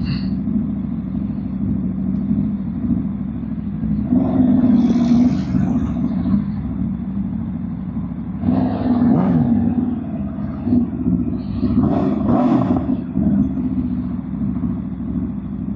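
Aprilia RSV4 1100 Factory V4 motorcycle engine running at low speed, its sound swelling briefly three times.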